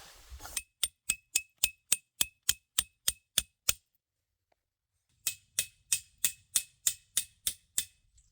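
Rapid hammer blows on a metal tent stake, each with a short ringing ping: about a dozen strikes, a pause, then a second run of about ten.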